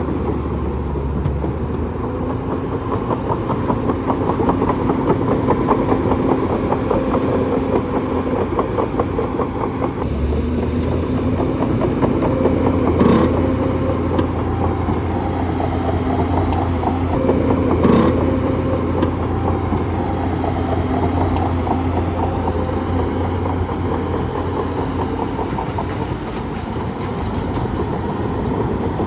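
A bulldozer's diesel engine running steadily, with the fast rattling clatter of its steel tracks. Two louder metallic clanks come about thirteen and eighteen seconds in.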